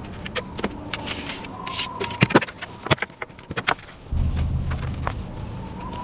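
Irregular sharp knocks and clicks, a few close together about two seconds in and more over the next two seconds; then a steady low hum starts suddenly about four seconds in.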